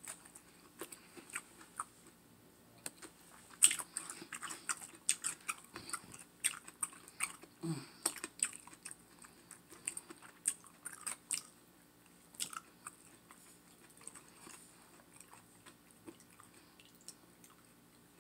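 Close-up wet chewing and lip-smacking of a person eating baked turkey leg dipped in sauce: irregular mouth clicks and smacks, thickest in the first half and thinning out later. There is a brief low hum about eight seconds in.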